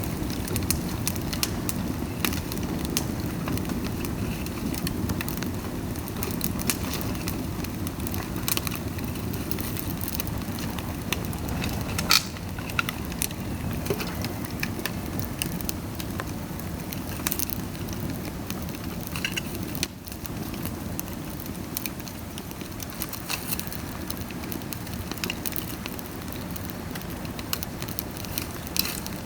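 Dry bamboo burning in a bonfire, crackling with scattered sharp pops over a steady low rush of flame; the loudest pop comes about twelve seconds in.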